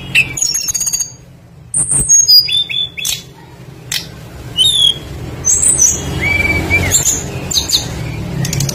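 Songbird song for a bird lure: tledekan calls mixed with other birds, quick high whistled and chirping notes and slurred slides. Sharp clicks come in now and then over a low steady hum.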